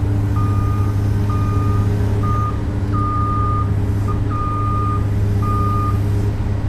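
Komatsu PC200 excavator's travel alarm beeping in a high single tone, about seven beeps of uneven length, over the steady drone of its six-cylinder diesel engine: the alarm sounds while the tracks are moving, here as the machine is driven onto a trailer. The beeping stops near the end while the engine keeps running.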